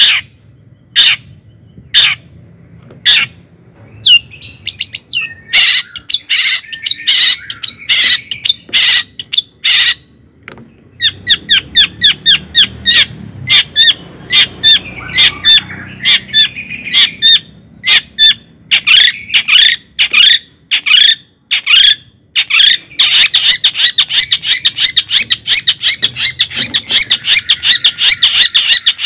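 Bird chirping loudly in short, sharp calls: single chirps spaced about a second apart at first, then quicker clusters, then a fast unbroken run of chirps near the end.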